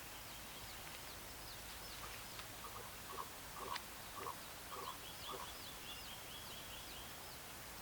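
A run of about eight short croaking calls, roughly two a second, from an animal at the water's edge, loudest near the middle, with faint high chirping above them.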